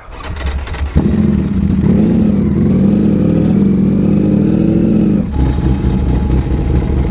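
Motorcycle engine running loudly, starting suddenly about a second in and holding a fairly steady note, then shifting to a lower rumble with a thin steady tone about five seconds in.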